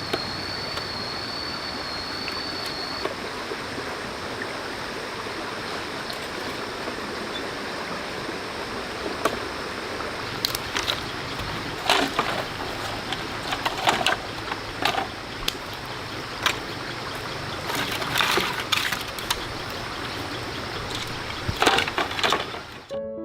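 Steady rushing of a flowing stream, with a series of sharp knocks and clatters from about halfway through.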